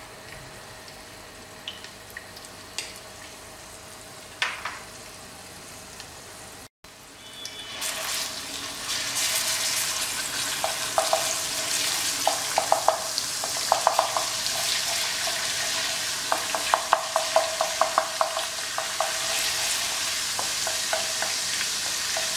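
Ginger-garlic paste frying in hot ghee in a nonstick kadai, sizzling while a wooden spatula stirs it and knocks and scrapes against the pan. The sizzle is faint with a few clicks at first. After a brief break about seven seconds in it turns loud, with runs of quick spatula taps in the middle stretch.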